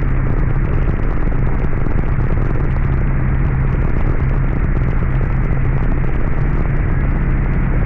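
Heavy rain falling in a steady, loud downpour, with a constant low hum underneath.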